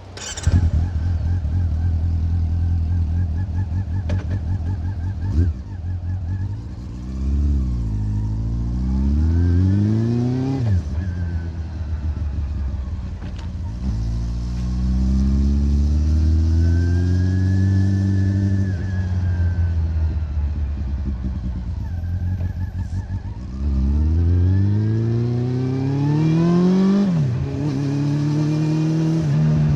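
Honda CB400's inline-four engine breathing through a Moriwaki aftermarket exhaust while riding. It revs up in several steep climbs, each cut short by a sudden drop in pitch at a gear change, with steadier cruising in between.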